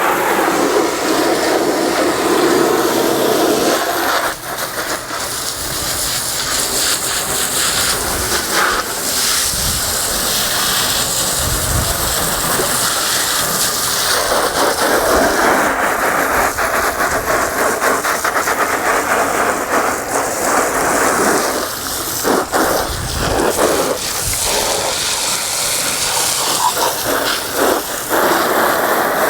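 Water spraying from a hose onto a boat, a steady spray whose sound shifts as the stream moves across the surface, with a few faint knocks.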